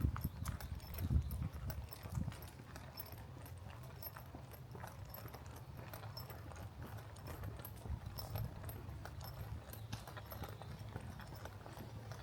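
Footsteps of a person walking steadily along a trail.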